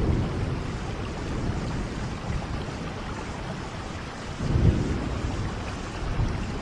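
Steady rain falling, with low rumbles of thunder, one swelling about four and a half seconds in.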